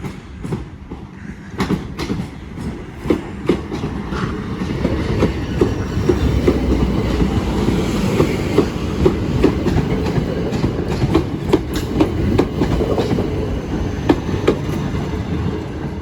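Southeastern Class 375 electric multiple unit passing, its wheels clicking repeatedly over the rail joints through a steady rumble that grows louder over the first few seconds.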